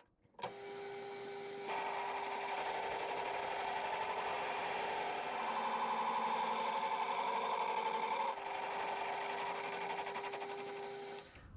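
Metal lathe running with a steady tone, its cutting tool turning the hard, likely work-hardened steel seal surface of a differential yoke as an interrupted cut. The cutting noise grows about two seconds in and eases near the end.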